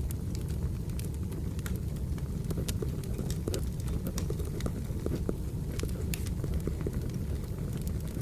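Wood fire burning: a steady low rumble with scattered sharp crackles.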